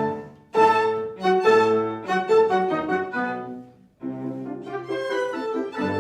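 Live classical chamber music, with violin and other bowed strings prominent. It pauses briefly about half a second in, a new phrase then fades out near four seconds, and a softer passage of quick repeated notes follows.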